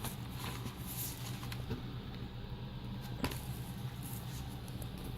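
Faint handling noises from items in an unboxed DVD set being picked up: a few soft rustles and taps, and one sharper click a little past three seconds in, over a steady low hum.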